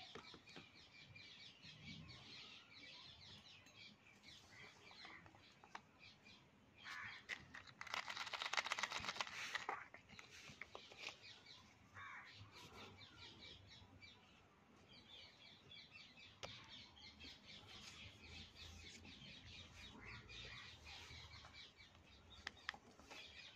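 Faint birds chirping in the background. A louder rustle with fine crackles lasts a few seconds, about eight seconds in.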